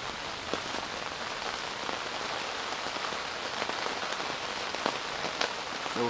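Steady rain falling during a thunderstorm: a dense, even hiss of rain with scattered sharper drop ticks.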